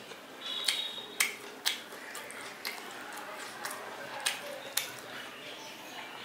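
A person chewing steamed chicken momos close to the microphone, with about seven sharp mouth clicks and smacks at irregular intervals.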